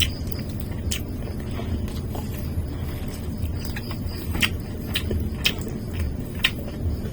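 A person eating fried chicken and chop suey: about half a dozen short, sharp chewing and mouth-smacking clicks, several of them a second or two apart in the second half, over a steady low background rumble.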